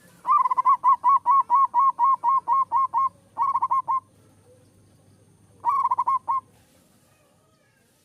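Zebra dove (perkutut) cooing: a fast, even run of about a dozen short notes, then a shorter run of about five notes, and after a pause of a couple of seconds another run of about five.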